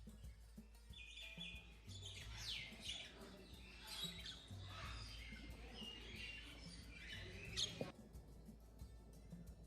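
Many small birds chirping and calling together, a busy chatter of quick high notes and short glides, which stops abruptly near the end; background music with a repeating low bass line plays underneath.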